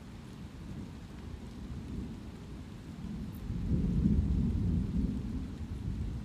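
Thunder rumbling over steady light rain: a deep roll swells a little past the middle and dies away toward the end.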